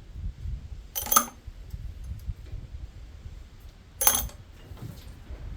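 Small steel engine parts clinking as they are dropped or set down: two sharp metallic clinks with a short ring, about three seconds apart.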